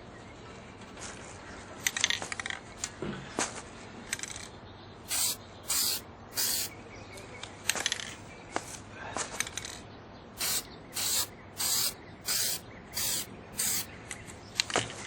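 Aerosol spray can sprayed in about ten short bursts of hiss, each around half a second long, starting about five seconds in. A few sharp clicks and taps come before them.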